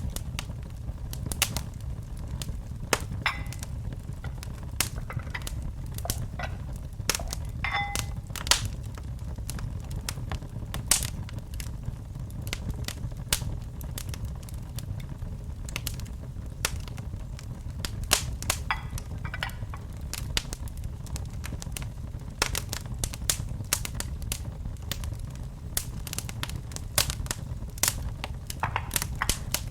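Wood fire burning in a fireplace: a steady low rumble of the flames with irregular crackles and pops from the burning logs.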